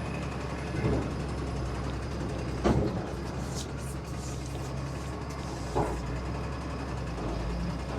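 Heavy truck moving slowly during a tow-start attempt on a Deuce and a half: a steady low engine drone with two sharp clunks, one a little under three seconds in and another just before six seconds.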